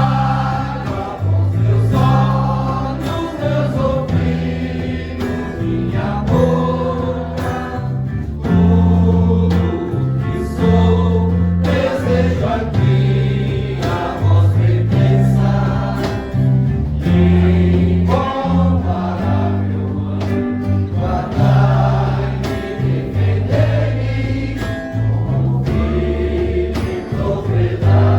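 Background music: a Catholic devotional hymn sung by a choir over a steady bass line.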